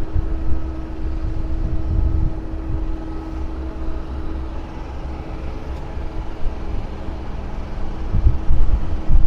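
A steady mechanical hum with a few fixed tones, fading somewhat later on, under irregular low rumbles of wind buffeting the microphone that grow stronger near the end.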